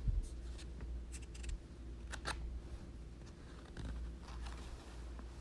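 Faint handling of a picture book between pages: a few soft clicks and a rustle, the loudest about two seconds in, over a low steady hum.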